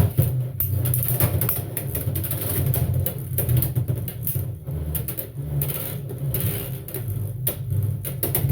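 Two Beyblade X tops (Reaper Incendio and Crest Leon, both on Kick drivers) spinning in a plastic stadium. A steady low whirr runs under rapid, irregular clacking as they collide and scrape around.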